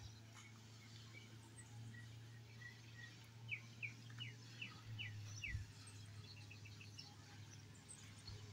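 Faint outdoor ambience with a small bird calling: a quick run of about six short falling chirps midway, with a few fainter chirps before it, over a low steady hum.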